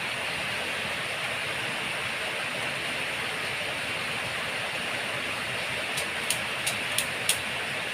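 Steady hiss of falling rain. Near the end, five sharp clicks come in quick succession.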